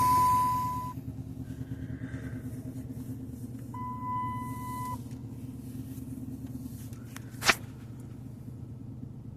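Dodge Daytona engine idling steadily just after start-up, a little louder in the first second as it settles. A steady high electronic warning tone sounds twice, about a second each time, and there is a single sharp click near the end.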